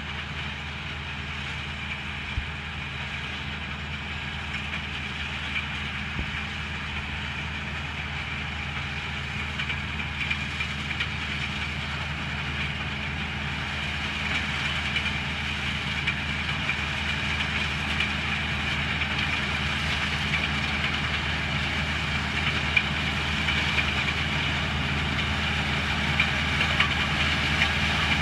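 Combine harvester running steadily while harvesting black beans: a low engine drone under a higher whirring of the machine, with occasional light clicks, growing gradually louder.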